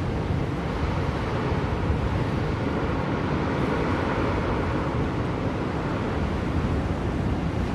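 Blizzard wind blowing steadily: a deep rumble with a hiss above it, swelling slightly midway through.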